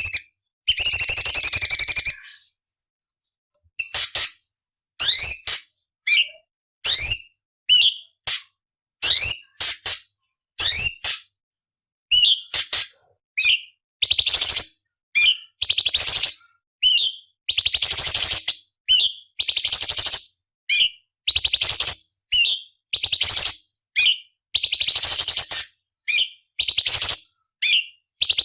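Orange-bellied leafbird (cucak cungkok) singing: a string of short, high, harsh rasping phrases mixed with sweeping whistled notes, about one phrase a second, each cut off by a silent gap. A few longer, fuller phrases come in the second half.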